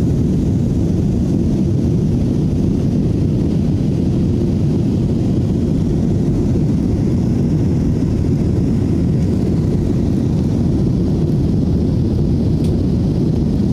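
Steady low rumble of jet airliner cabin noise, from the engines and airflow heard inside the passenger cabin, with no change in level.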